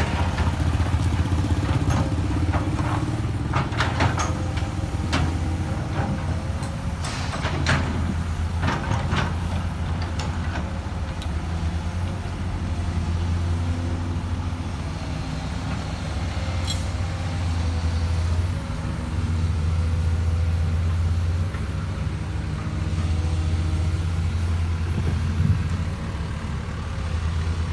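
Excavator's diesel engine running steadily, its low hum swelling and easing as the load changes, with a scattering of sharp knocks and clanks in the first ten seconds or so.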